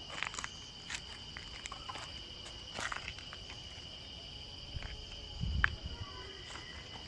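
Steady high-pitched insect chorus, with scattered footsteps and crunches on dry ground and a heavier thump about five and a half seconds in.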